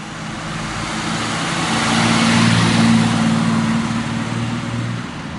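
A classic rally car driving past: its engine note and tyre and road noise build up, are loudest a little past halfway, then fade away.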